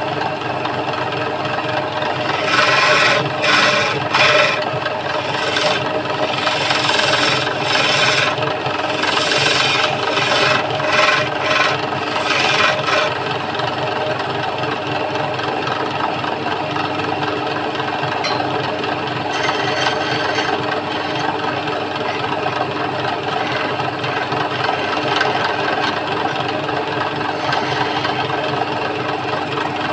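Wood lathe running with a steady motor hum while a turning chisel cuts a spinning wooden stool leg. The cutting comes in uneven scraping bursts for the first dozen seconds, then settles into a steadier run.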